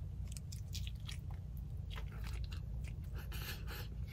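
Biting into and chewing a grilled tortilla burrito close to the microphone: many short, irregular crunches and mouth clicks, over a low steady hum.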